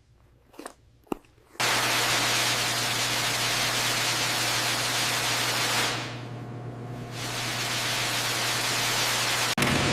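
A few faint clicks, then a loud, steady rushing noise with a constant low hum sets in abruptly about a second and a half in: the drone of aircraft engines heard from inside the cabin. The hiss dulls for about a second around six seconds in, and the sound cuts sharply near the end.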